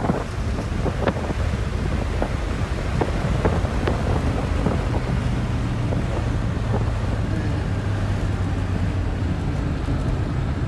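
1980 Pontiac Trans Am's V8 engine running at a steady cruise, heard from inside the cabin with wind rushing past the microphone. A few light knocks come in the first few seconds, and the engine's drone holds steady through the second half.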